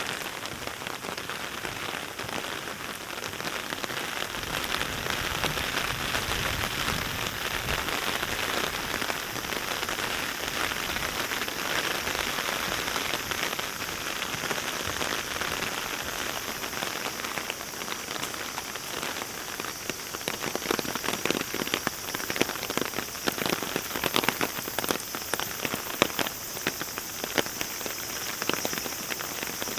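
Heavy rain falling steadily, a dense hiss of drops; from about two-thirds of the way through, many louder close drops land as sharp ticks.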